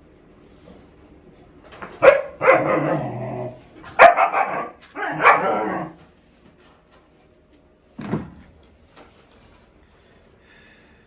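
A dog barking in three loud bursts, each about a second long, starting about two, four and five seconds in, then a shorter bark near eight seconds.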